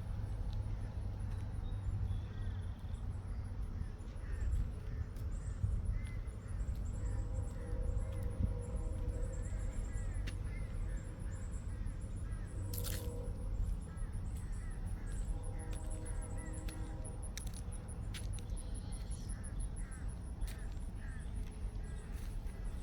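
Outdoor countryside ambience: a continuous high-pitched pulsing insect trill, scattered bird chirps and crow-like caws, over a low rumble on the microphone.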